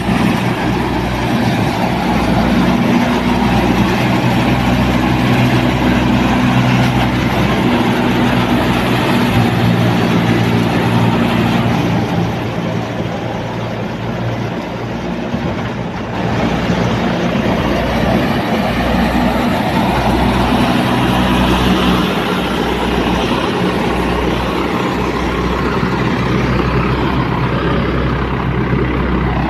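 UTB Universal 650 tractor's diesel engine running steadily, with a low, even drone; it drops in level for a few seconds about twelve seconds in, then comes back up.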